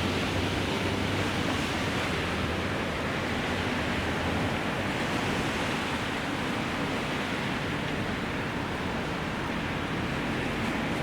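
Steady hiss of heavy rain, an even rushing noise with no distinct events.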